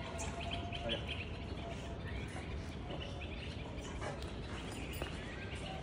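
Small birds chirping on and off over a steady background hum, with a thin held tone near the start.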